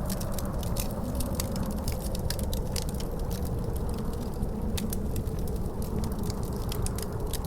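Wood fire crackling, with many quick sharp pops, over a steady low rumble of wind and a faint howling tone that slowly sinks in pitch.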